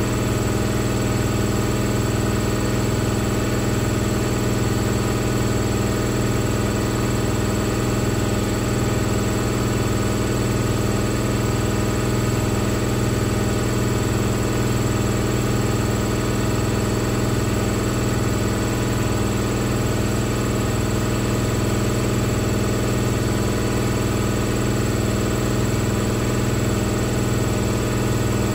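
Hoover VisionTech VTS715D21X washing machine spinning at a steady high speed: its motor and drum whine evenly, with several held tones over a low hum.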